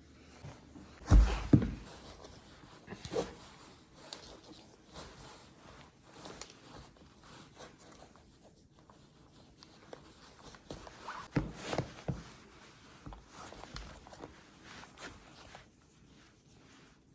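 Person moving about and handling clothing and shoes while getting dressed for the snow: scattered footsteps, rustles and clicks, with a couple of heavy thumps about a second in and again around twelve seconds in.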